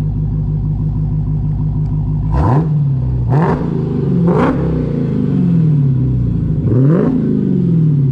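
2020 Dodge Challenger Hellcat Redeye's supercharged 6.2-litre Hemi V8 idling through an exhaust with only the resonators deleted (catalytic converters and straight-through mid mufflers kept), then revved four times about two seconds in: each rev's pitch jumps up sharply and falls back more slowly to idle.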